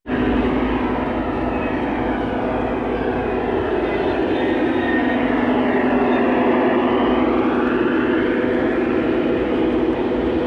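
Model trains running on a layout: a steady rumble of motors and wheels on the track, with the tone sweeping as a train passes close about halfway through.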